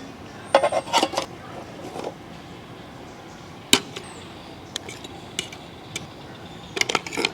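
Metal utensils clinking and knocking against cookware as stuffed clams are lifted out: short scattered clicks, a cluster in the first second and another near the end, and one sharp knock about halfway through.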